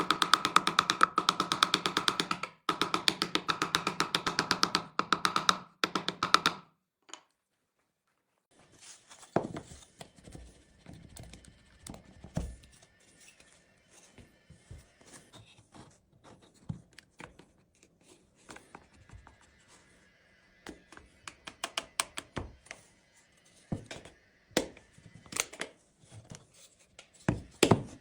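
Background music with a steady beat for the first several seconds, then cuts off. After a short pause come irregular sharp taps and knocks of hand work on wood, with a faint steady high tone underneath.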